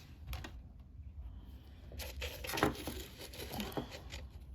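Plastic packaging crinkling as bead strands are handled, with small clicks, growing busier from about halfway through.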